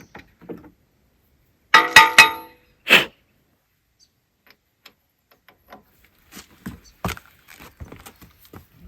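Steel spanners clinking together as they are handled and swapped. A loud metallic jangle with ringing comes about two seconds in and a knock follows a second later. Lighter clicks and taps come near the end.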